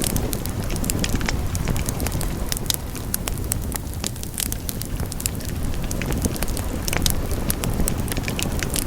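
Wood fire burning in a fireplace, a steady low rumble of flames with frequent sharp crackles and pops scattered throughout.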